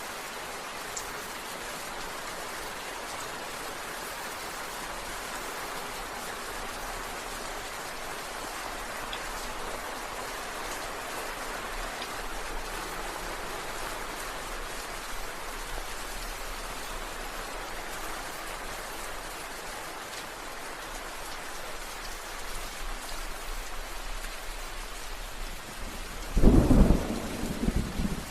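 Steady rain falling in an even hiss. Near the end, a sudden loud rumble of thunder lasting about two seconds.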